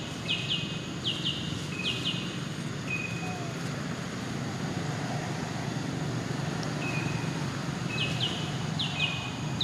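A bird calling over and over: a short high whistle followed by pairs of quick downward-sliding chirps, repeating about once a second, with a pause of a few seconds in the middle. A steady low background rumble runs underneath.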